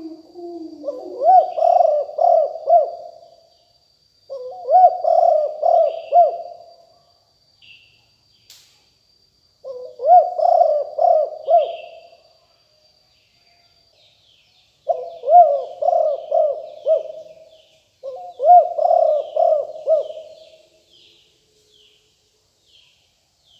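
Spotted dove cooing: five phrases of several quick, rolling coos each, repeated every few seconds with short pauses between.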